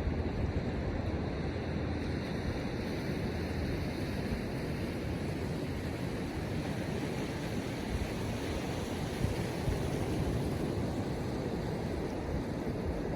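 Surf washing on the shore mixed with wind buffeting the microphone: a steady rushing noise, heaviest in the low rumble.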